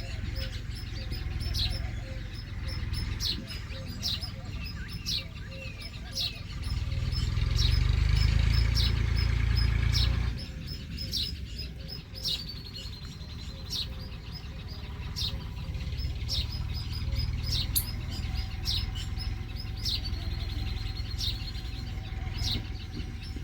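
Small birds chirping: short, sharp chirps repeating about once a second, with a couple of longer drawn-out calls in the second half. A low rumble swells under them from about six to ten seconds in.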